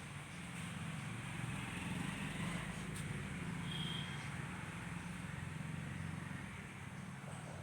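Steady low rumble of a running engine, with a single click about three seconds in and a brief high note a second later.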